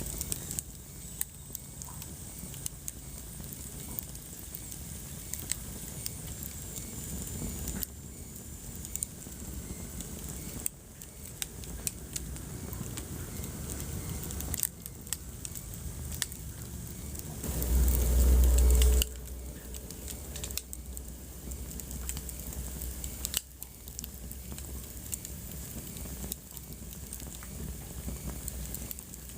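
Wood fire in a fireplace crackling, with scattered sharp pops over a steady hiss. About two-thirds of the way through, a deep low rumble lasts about a second.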